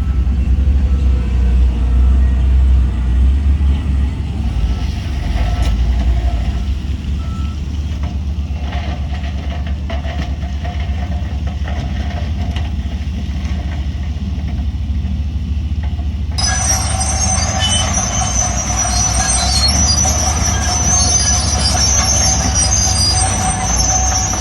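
Heavy diesel earthmoving machinery rumbling steadily; about two-thirds of the way in, a high metallic squealing starts abruptly and continues.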